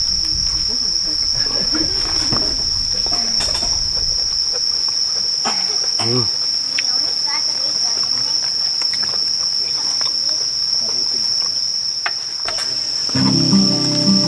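Insects singing, a steady high-pitched trill, with faint voices under it. Background music comes in near the end.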